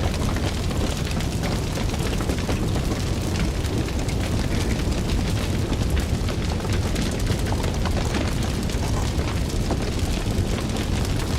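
Fire burning, with a steady low roar of flames and many sharp crackles and pops scattered throughout.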